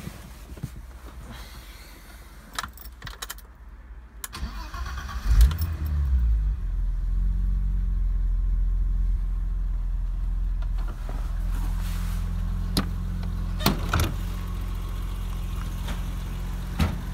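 A BMW E30 325 Cabrio's straight-six is started: a few clicks, then the starter cranks briefly and the engine catches with a short rev about five seconds in. It settles into a steady idle at about 1000 rpm, dropping slightly in level about eleven seconds in. A few sharp clicks sound over the idle.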